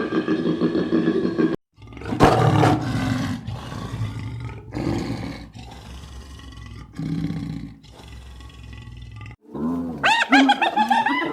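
A large animal giving about five rough, deep, noisy calls a second or two apart. Near the end chickens start clucking.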